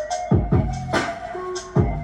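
Electronic beat: deep kick drums that drop in pitch, a sharp snare or clap hit about a second in, short hi-hat hisses and held synth tones.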